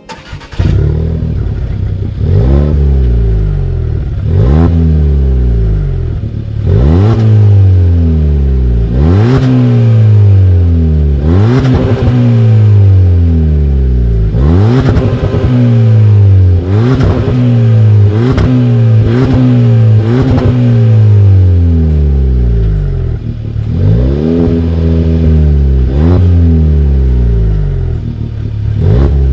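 Volkswagen Golf 1.4 TSI turbocharged four-cylinder revved again and again through an aftermarket GTI-style rear exhaust silencer: about a dozen quick rev rises, each falling back to a steady idle, roughly every two seconds.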